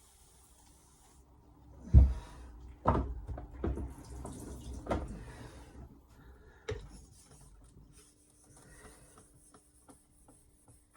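Wet whetstones being handled: water splashing with hiss, and several hard knocks as stones are set down or knocked against a surface, the loudest about two seconds in.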